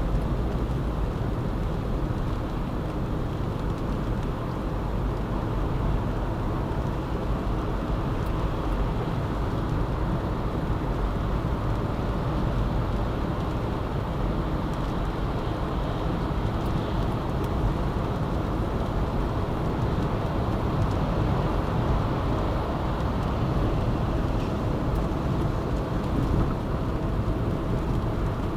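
A car driving steadily on a city highway: continuous road and tyre noise with engine sound, even throughout.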